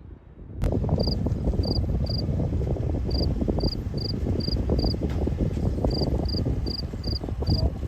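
A cricket chirping in regular short high chirps, two or three a second, over a loud low rushing noise that starts suddenly under a second in.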